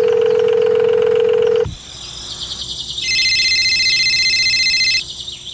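Electronic telephone-like tones: a single steady low beep for about a second and a half, then a chord of several high pure tones held for about two seconds, starting again near the end.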